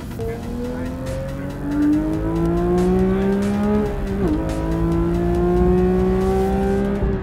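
Porsche 911 flat-six engine accelerating through the gears of a manual gearbox, heard from inside the cabin: the engine note climbs steadily, drops sharply at an upshift about four seconds in, then climbs again until another shift near the end.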